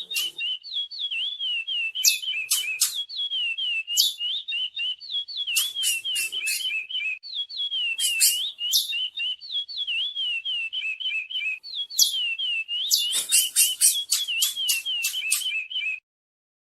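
Curió (chestnut-bellied seed finch) singing a fast, unbroken string of looping whistled notes, broken every few seconds by clusters of sharp, high chips. The song stops suddenly near the end.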